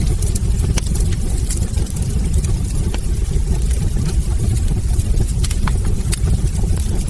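Wood fire burning in a fireplace: a steady low rumble of the flames with frequent irregular crackles and sharp pops from the logs.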